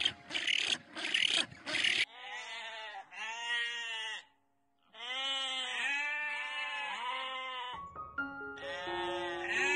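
Loud rough noise bursts for about two seconds, then a run of short bleating calls, each rising and falling in pitch, about two a second with a brief pause in the middle. Held musical notes come in near the end.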